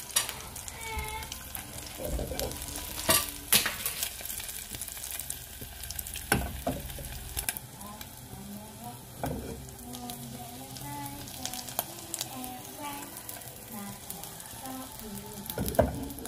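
An egg and silverfish omelet frying in shallow oil in a nonstick pan, with a steady sizzle. A spatula knocks and scrapes against the pan a few times, the sharpest knocks about three seconds in and just before the end.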